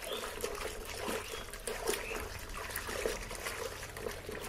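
Water sloshing and splashing in a bucket as clothes are swished left and right by hand, an uneven run of small splashes.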